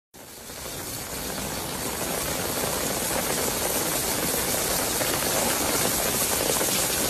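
Heavy rain as a steady rushing hiss, with rainwater pouring from the Kaaba's golden rain spout. After a brief gap at the start it swells over the first two seconds, then holds steady.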